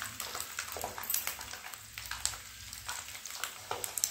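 Boiled eggs frying in hot oil in a kadhai: a steady sizzle with many small scattered pops and crackles as the eggs turn golden.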